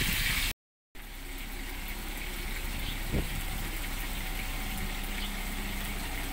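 Fish frying in a pan sizzles loudly for a moment, then cuts off abruptly. After the cut a softer, steady hiss runs on with a faint hum beneath it and a single knock about three seconds in.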